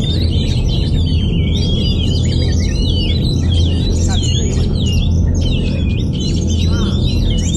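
Oriental magpie-robin (kacer) singing a continuous, rapid stream of varied whistled and gliding notes, over a steady low hum.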